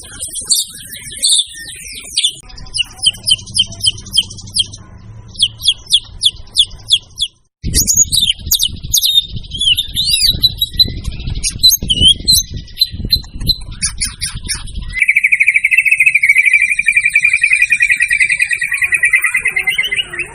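White-rumped shama (murai batu) singing: loud, fast runs of repeated whistles, chirps and rapid trills, with abrupt jumps between song passages and one long rapid trill in the last few seconds.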